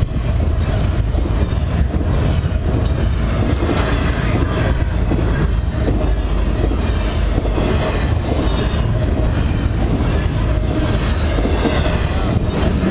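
A train's cars rolling past at a road crossing: a steady, loud rumble of wheels on rail, with irregular clicks as the wheels cross rail joints.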